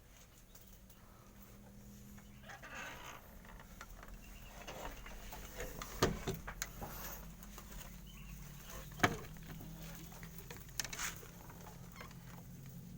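A few sharp knocks, the loudest about six and nine seconds in, with softer rustling between them, over a steady low hum.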